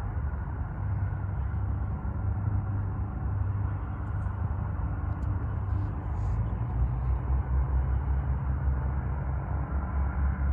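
Steady low engine rumble that deepens and grows slightly louder about two-thirds of the way through.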